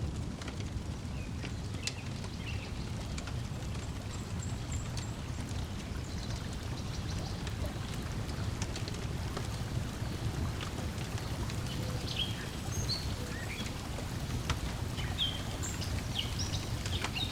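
Layered lakeside ambience: a steady low wash of water lapping at the shore, with scattered sharp crackles from a wood fire. Short bird chirps come in now and then, more often near the end.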